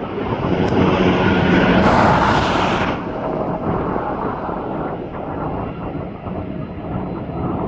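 Jet aircraft engines running as a plane passes, loudest about two seconds in, then dropping to a lower, steady rumble.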